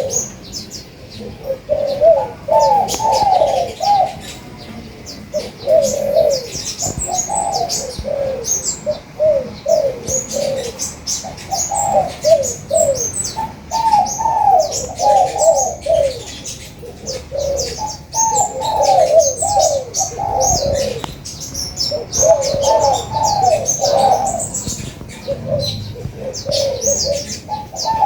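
Spotted doves cooing in repeated short phrases of low, arched notes, over a steady stream of thin, high chirps from sunbirds.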